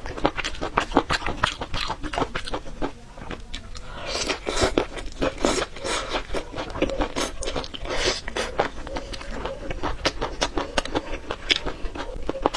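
A person biting and chewing crunchy food: a dense, continuous run of crunches and clicks, loudest from about four to nine seconds in.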